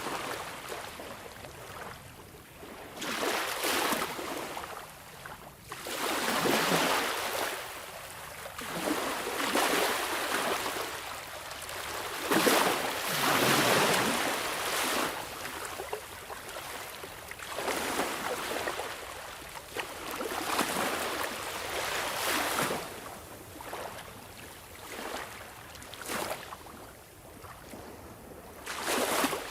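Sea waves breaking and washing in, a rushing hiss that swells and ebbs every few seconds.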